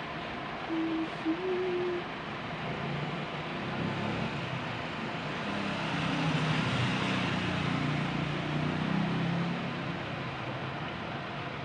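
An engine running over a steady noisy background, getting louder towards the middle and easing off near the end.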